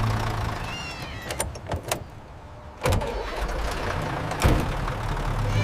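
A few sharp metallic clicks of tools working in a truck's engine bay, then, about three seconds in, the truck's engine comes to life and settles into a steady low idle once its new serpentine belt is fitted.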